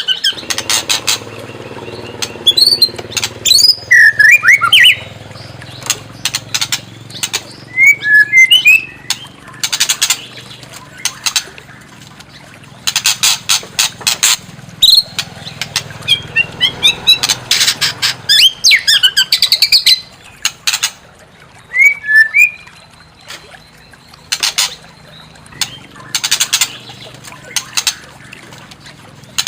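White-rumped shama (murai batu) singing in an agitated way: runs of rapid, harsh rattling notes alternate with short, quick whistled phrases that glide up and down.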